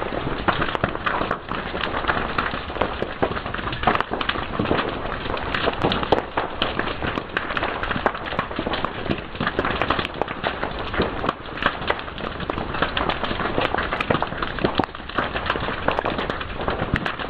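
Fire crackling, a dense hiss broken by many sharp, irregular pops.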